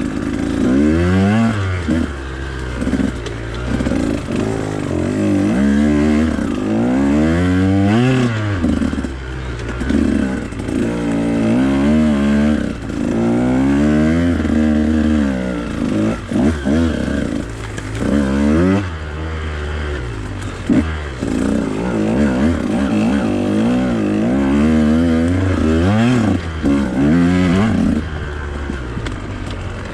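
Husqvarna TE 150's single-cylinder two-stroke engine being ridden hard on a trail. It revs up and falls back over and over as the throttle is worked and the gears are changed, with some clatter from the bike.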